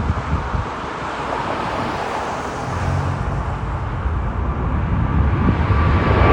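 Jet airliner engine noise with wind buffeting the microphone: a steady rumble that grows louder near the end, as a high steady engine whine comes in.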